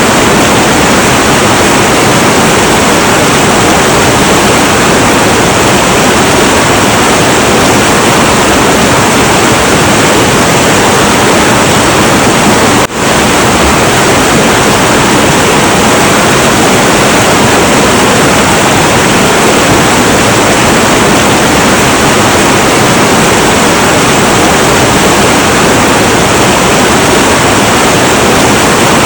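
Heavy, turbulent river water rushing in a loud, steady roar, with a momentary dip in level about halfway through.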